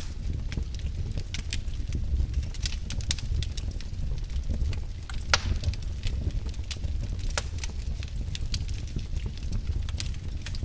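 Wood fire burning in a fireplace: irregular crackles and pops of burning firewood over a steady low rumble of the flames, with one louder pop about five seconds in.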